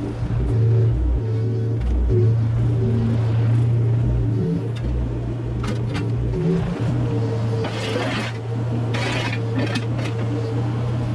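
Mini excavator's diesel engine running steadily under hydraulic load, with bursts of scraping and clattering debris about eight and nine seconds in.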